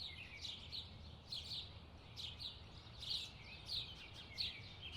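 Small songbirds chirping: short high chirps, two or three a second, over faint low background noise.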